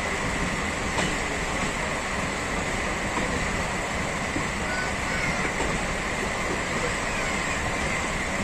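Running noise of a passenger train coach in motion, heard from its open doorway: a steady rush of wheels on rail and moving air, with a faint steady high tone and a single click about a second in.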